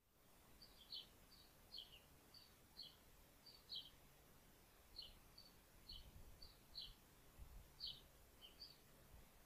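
Faint small-bird chirping: short two-note chirps, each stepping down in pitch, repeated irregularly about twice a second.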